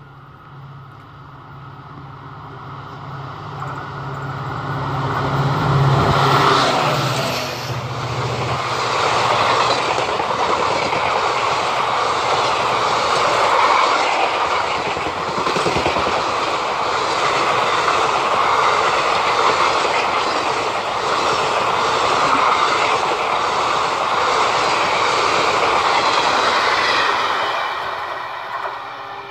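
Indian Railways express train passing at speed. A low steady hum builds as the front of the train approaches and goes by about six seconds in. Then a long run of coaches rumbles and clatters over the rails, fading near the end as the train moves away.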